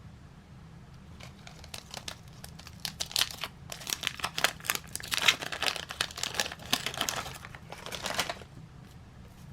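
Wrapper of a 1981 Topps trading-card pack being torn open and crinkled: a dense run of crackles that builds about a second in, is busiest through the middle, and dies away near the end.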